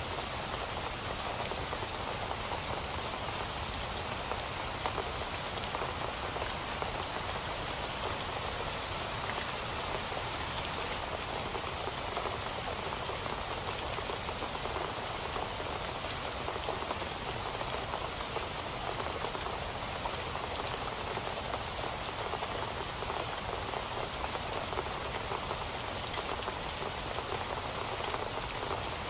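Steady rain falling on a surface, an even hiss of many drops with no let-up or change.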